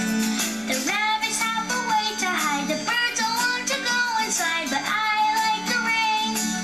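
Children's song: a child's voice singing over an instrumental backing track.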